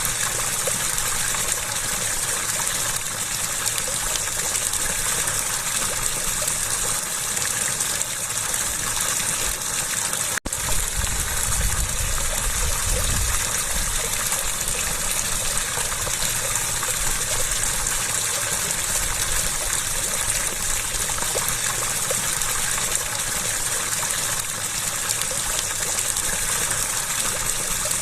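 Steady rush of flowing water, with a momentary break about ten seconds in.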